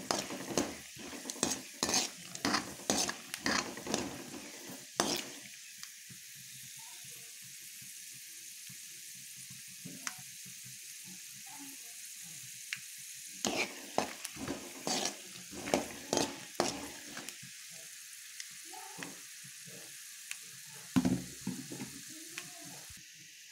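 Raw peanuts frying in hot oil in a pan on a medium flame: a steady sizzle, with runs of sharp clicks and pops in the first few seconds, again in the middle, and a loud one near the end.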